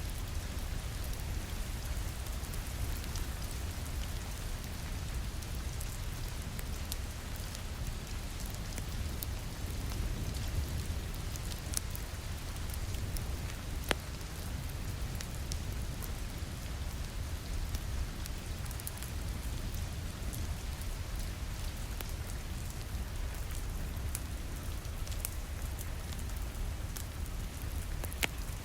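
Steady rain pattering on a window, mixed with a wood fire crackling in a fireplace. Scattered sharp crackles and pops cut through the rain, one louder pop about halfway through.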